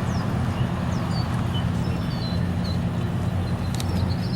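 A steady low hum of a motor running, with small birds chirping in short falling notes above it and a few sharp clicks near the end.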